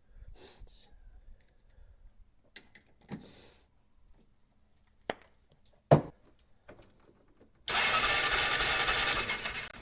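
A few clicks and a sharp knock from handling parts, then the Polaris Ranger's engine cranking on its starter for about two seconds without catching: with no spark from the aftermarket ignition coil it does not fire.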